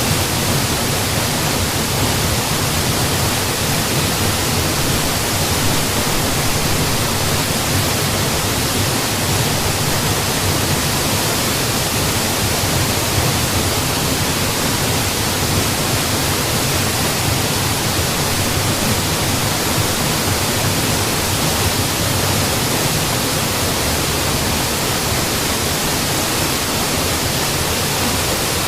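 Waterfall's falling water making a steady, dense rush with no change in level.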